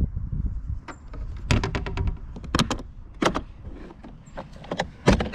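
A string of sharp clicks and knocks in quick runs, the loudest about five seconds in, from a just-caught bass and gear being handled on a plastic fishing kayak.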